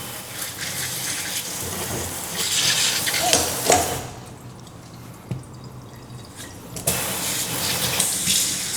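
Kitchen tap running as fresh herbs and vegetables (scallion, thyme, onion, Scotch bonnet pepper) are rinsed under it by hand; the rush of water is quieter for a few seconds midway, then runs full again.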